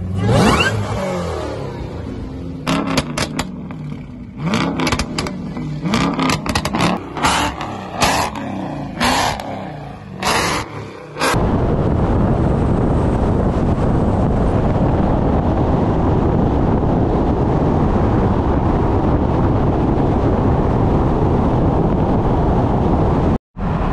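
Car engines revving, rising in pitch, with a string of short loud blasts. About eleven seconds in it changes abruptly to a steady loud rushing noise.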